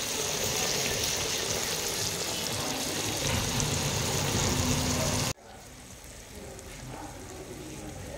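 Sliced onions, green chillies and small fish sizzling in hot oil in a karahi. The sizzle is steady and loud, then drops suddenly to a quieter sizzle about five seconds in.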